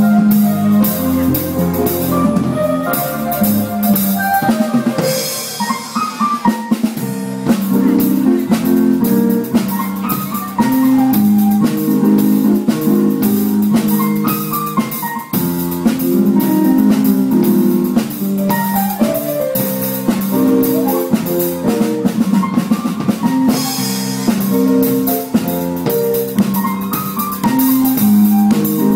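Student band playing live: violin with sliding notes over keyboard, and a drum kit keeping a steady beat.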